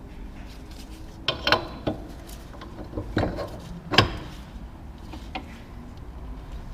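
Tools and parts being handled on a workbench: a handful of sharp clinks and knocks, the loudest about four seconds in, over a low steady hum.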